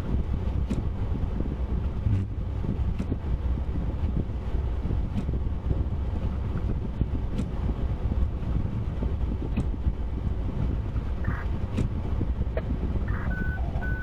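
Steady low road and engine rumble heard from inside a car driving along, with faint ticks about every two seconds and a few short beeps near the end.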